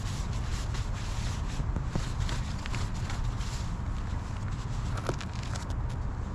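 Irregular scraping and rubbing clicks over a steady low rumble.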